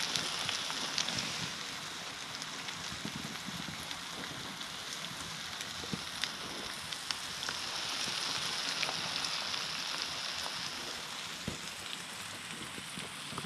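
Eggs and meat patties sizzling in a frying pan on a wood stove: a steady hiss of frying fat with scattered small pops.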